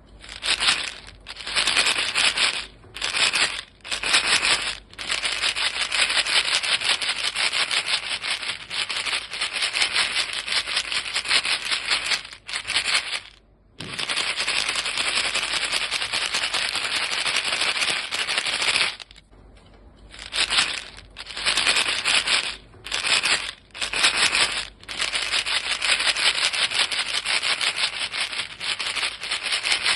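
A box of chewing-gum pellets shaken steadily, the pellets making a dense, fast rattle against the box. The shaking stops briefly several times, for about a second near the middle.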